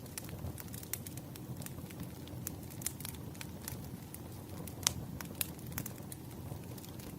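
Wood fire burning: a low steady rumble under frequent sharp crackles and pops from the logs, the loudest pop about five seconds in.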